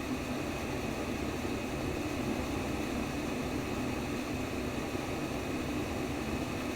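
Steady white noise played as a baby sleep aid: an even, unchanging hiss with most of its weight low down, like a fan's rush.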